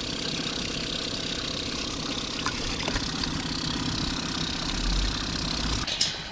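A motor running steadily with a fast, even pulse, cutting off suddenly near the end with a sharp click.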